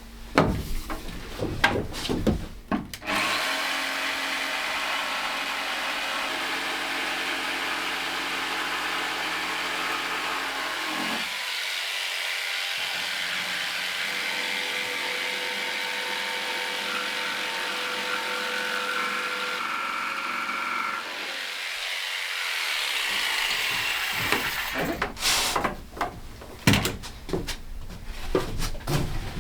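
Power tool running steadily on woodwork for about twenty seconds, with a couple of brief changes partway through; wooden knocks and clatter come before it and again near the end.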